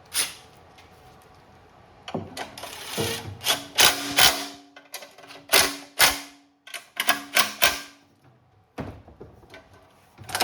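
Hand tools working on a generator's recoil starter: a run of sharp ratcheting clicks and metal clinks in the middle few seconds, as the starter is bolted on with 10 mm bolts.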